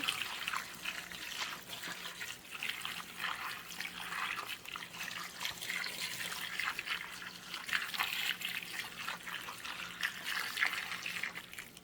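Boiled water being poured from a pot over chicken feet in a bowl: an uneven splashing and trickling stream that goes on throughout.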